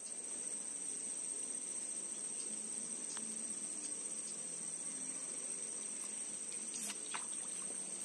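Insects trilling steadily in one continuous high-pitched drone, with a couple of faint clicks.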